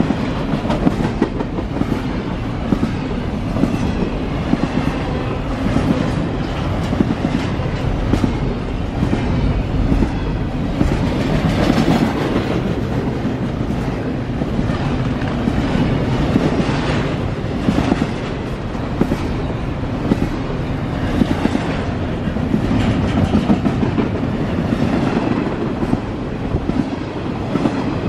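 CSX intermodal freight train's double-stack container well cars rolling past at close range: a steady loud rolling noise of steel wheels on rail, with repeated clicks as the wheels cross rail joints.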